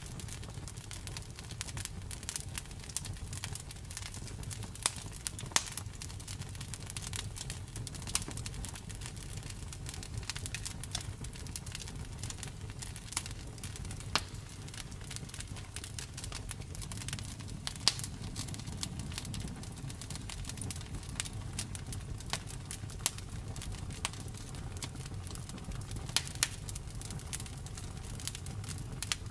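Wood fire crackling, with frequent irregular sharp pops over a steady low rumble of burning.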